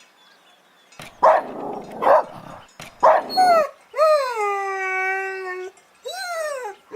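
A dog barking three times, about a second apart, then a long howl that falls in pitch and holds steady, and a shorter howl near the end.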